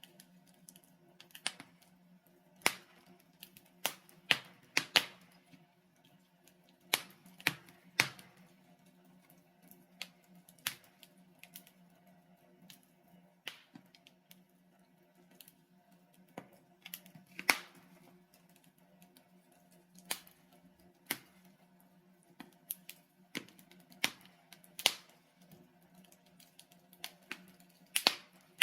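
Logs burning in a fireplace, crackling with irregular sharp pops and snaps, sometimes several in a second, over a faint low steady hum.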